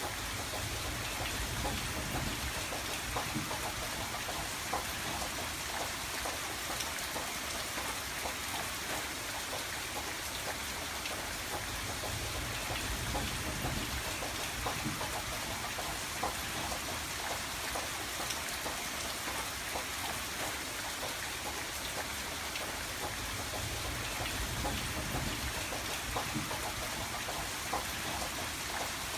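Steady rain falling on a window, a dense patter of drops with no pauses.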